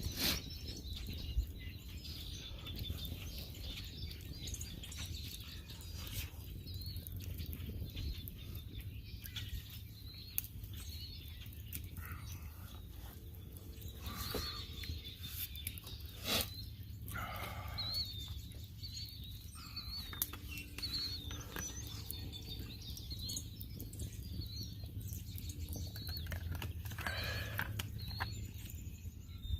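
Songbirds chirping and singing in short repeated phrases, with a few sharp clicks along the way and a steady low hum underneath.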